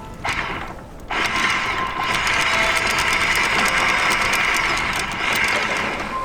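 A machine running with rapid, even clicking, starting about a second in, in the manner of a ratchet or gears turning.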